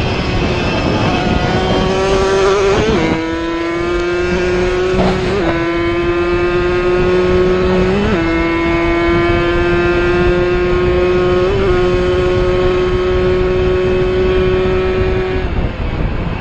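Two-stroke racing motorcycle engine running at high revs. A steady high-pitched note is held for long stretches, with four brief jumps in pitch, and the note stops near the end.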